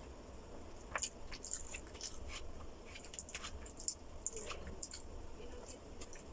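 A person chewing food close to the microphone: a run of short, wet mouth clicks and smacks that starts about a second in.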